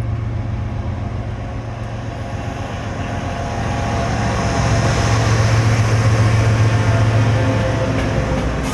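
Diesel freight train passing close by: a steady low locomotive engine drone under the rumble of the wheels and cars. It grows louder through the middle and eases off near the end.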